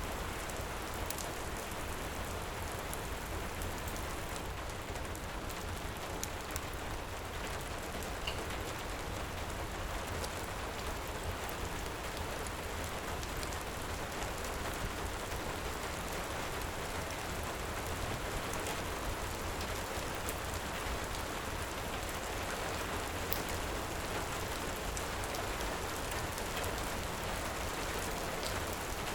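Heavy rain falling steadily, with a steady low rumble underneath and scattered small crackles of a wood fire.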